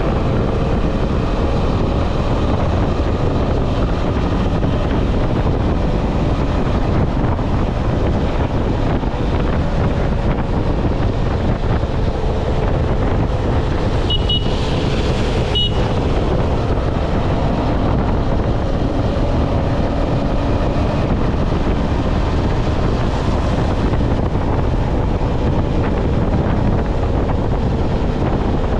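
KTM 250 Adventure motorcycle at highway speed: heavy wind noise buffeting the microphone over the steady drone of its single-cylinder engine. About halfway through, a short high-pitched beep sounds twice, a second or so apart.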